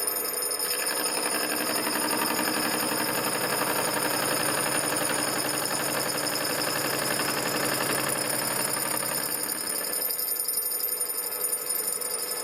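Machine tool running while it cuts a brass part. A rougher cutting noise sets in about a second in and stops about three seconds before the end, leaving the machine running steadily.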